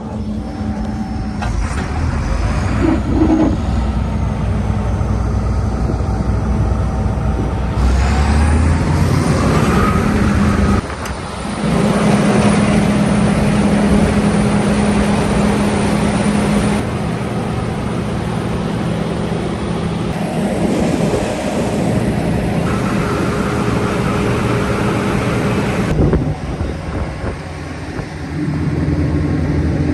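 John Deere 9770 STS combine running with its separator engaged, the threshing and cleaning system spinning up and blowing out built-up gunk. A rising whine about eight to ten seconds in, then a steady, loud machine drone with a couple of brief dips in level.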